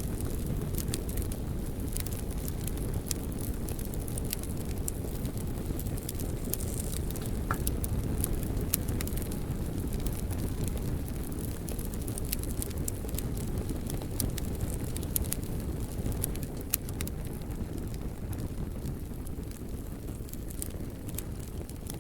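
Wood fire burning in a fireplace: a steady low rumble of flames with frequent small, sharp crackles and pops from the logs. A brief thin whistle sounds about seven seconds in.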